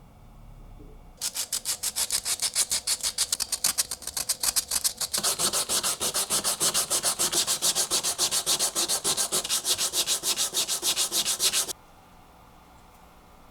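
Meat chopper handle being hand-sanded: rapid, even back-and-forth strokes, about five a second, stopping suddenly near the end.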